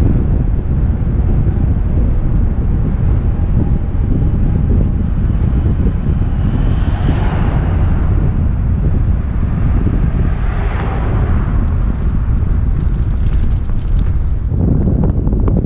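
Wind buffeting a helmet-mounted camera's microphone on a moving bicycle, a steady heavy rumble. Two swells of brighter rushing noise come about seven and eleven seconds in.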